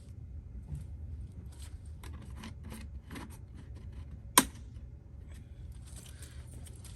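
Hands working small parts: a series of short scrapes and rubs, then one sharp click about four seconds in, over a steady low hum.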